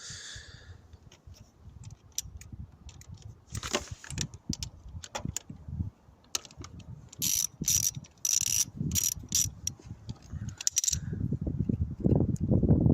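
Ratchet wrench with a 10 mm socket clicking in quick runs of ticks as bolts on a scooter engine are undone, with a few sharper metallic clicks in the middle and a dense run of ticks near the end.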